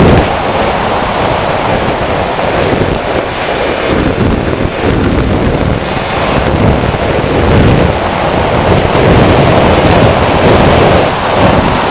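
Electric motors and propellers of a radio-controlled multirotor running steadily, with a thin high whine. Heavy wind rumble gusts on the microphone throughout.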